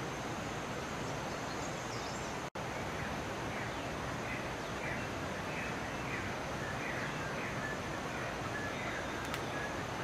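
A steady, even rushing background noise, with a bird singing a quick run of short descending chirps through the second half. The chirps are too high for the motmot's low hoots. The sound drops out for an instant about two and a half seconds in.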